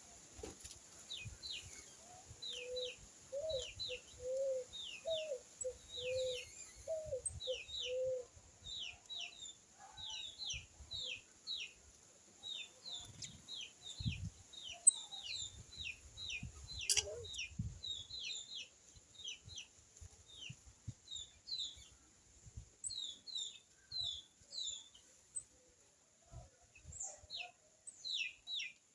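Small birds at a feeding tray chirping constantly, a quick run of short, high, falling chirps, with a lower bird call repeated about eight times between roughly 3 and 8 seconds in. Two sharp knocks come about halfway through.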